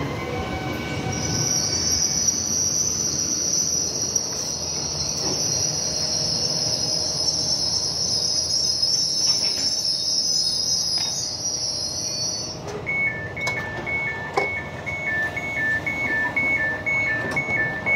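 Trenitalia TPER regional train pulling slowly to a stop with a steady high-pitched squeal over its running noise. The squeal cuts off about two-thirds of the way through as the train halts, and a two-tone door beep then repeats about twice a second, signalling that the doors are released.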